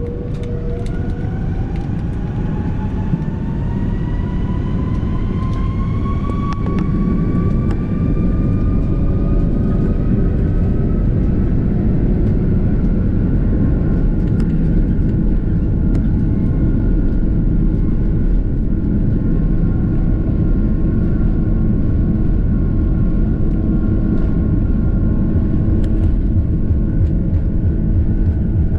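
Airbus A330-300's Rolls-Royce Trent 700 turbofans heard from inside the cabin spooling up to takeoff thrust: a whine climbs in pitch over the first several seconds, then holds steady over a loud, growing rumble as the takeoff roll gets under way.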